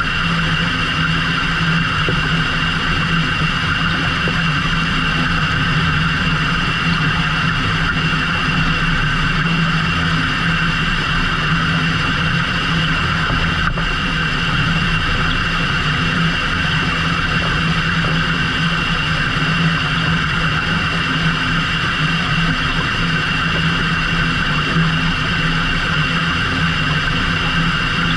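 A fishing boat's engine running at a steady speed, a constant unchanging hum with no rise or fall in pitch.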